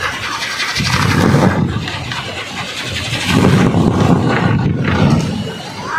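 Bamboo kolecer windmill spinning in the wind, its blades making a loud, pulsing whirr that swells about a second in and again from about three to five seconds.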